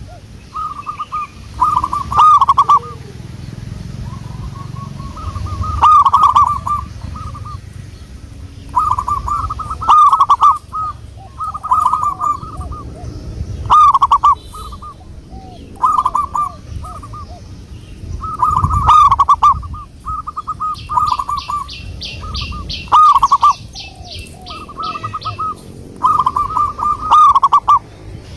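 Zebra dove (perkutut) singing: short, rolling, rhythmic coo phrases repeated every second or two. A quick run of high ticks comes in about three-quarters of the way through.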